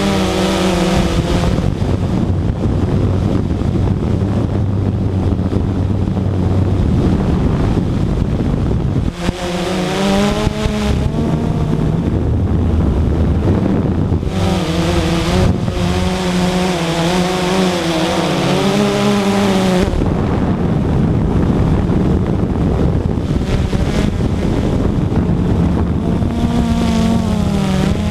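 Radio-controlled model aircraft's motor running in flight, its pitch wavering up and down as it manoeuvres and passes, over steady wind noise on the microphone.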